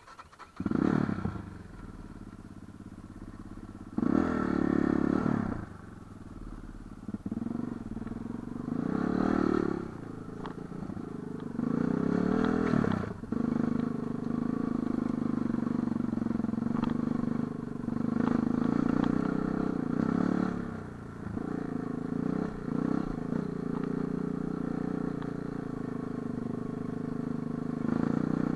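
Light enduro motorcycle engine running, revving up in repeated bursts every few seconds and dropping back between them.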